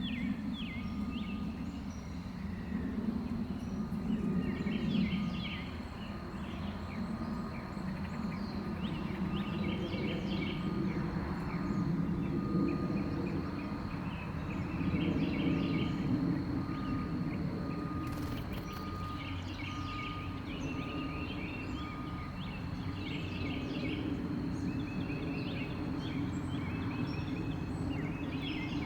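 Small backyard birds chirping in short, repeated bursts, over a steady low rumble of background noise and a thin, constant high tone.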